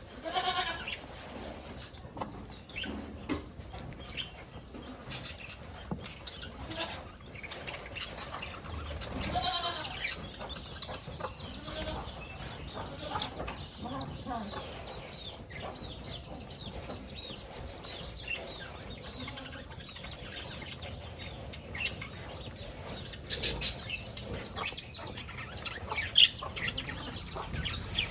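Budgerigars chattering and chirping, with many short calls throughout. Two longer wavering calls come about half a second and nine and a half seconds in.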